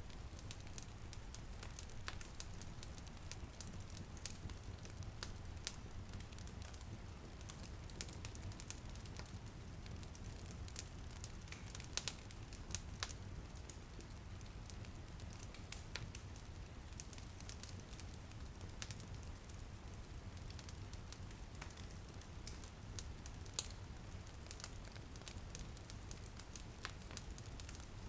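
Wood fire crackling and popping, with irregular sharp snaps over a steady low rumble and a soft hiss of light rain.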